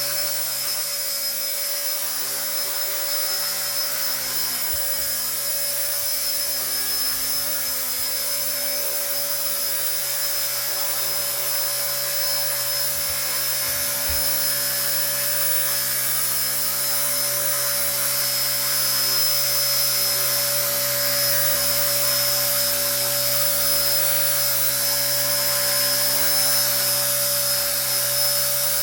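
Small RC ERA 1:48 scale Huey micro helicopter in flight, its electric motor and rotor giving a steady high-pitched whine that grows a little louder about two-thirds of the way in.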